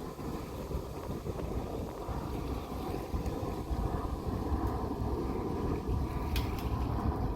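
Airbus A220-100 airliner on final approach: a low jet rumble slowly growing louder, with wind buffeting the microphone. A couple of faint clicks come near the end.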